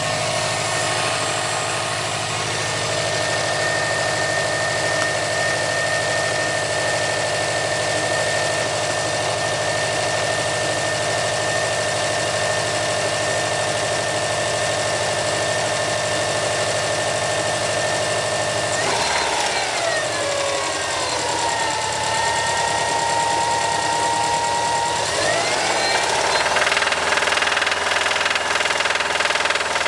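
2008 Subaru STI's turbocharged 2.5-litre flat-four running at raised revs with a knock from a bad number-three connecting rod. The engine note dips about two-thirds of the way in and climbs again a few seconds later.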